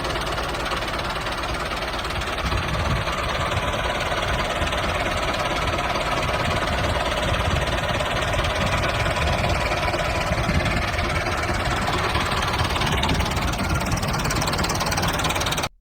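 Small engine running steadily at idle with a rapid knocking beat; it cuts off abruptly near the end.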